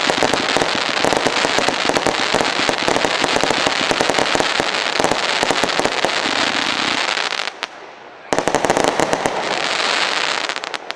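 84-shot 'Usain Bolt' firework battery firing its shots in quick succession, a dense rapid barrage of cracks and reports. It breaks off abruptly just before 8 seconds in, then carries on for a few more seconds and ends.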